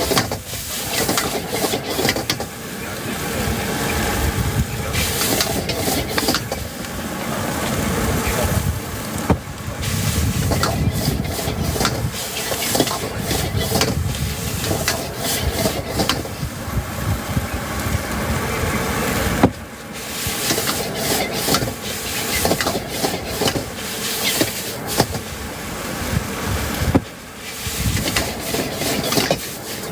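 Stir-frying in a wok over a strong gas burner: a steady sizzle and burner rush, with the metal spatula scraping and knocking against the wok many times.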